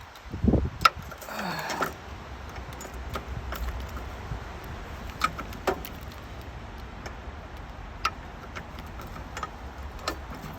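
Keys jangling with scattered small clicks and a knock about a second in, over a steady low rumble.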